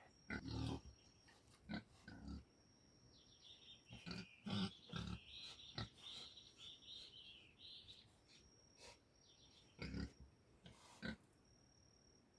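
Pig grunting in short bursts, several times, with birds chirping and a thin, steady high-pitched tone.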